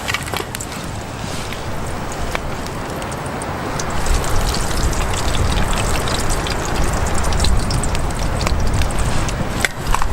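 Steady hiss of rain with scattered sharp ticks of drops, and a low rumble that swells about four seconds in.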